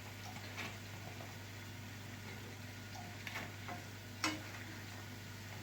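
Oladyi frying in a pan of sunflower oil, a faint steady sizzle over a low hum, with a few light clicks of a utensil against the pan, the sharpest about four seconds in.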